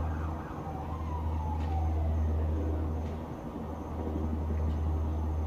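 Distant emergency siren with two falling wails in the first two seconds, over a steady low rumble of town traffic.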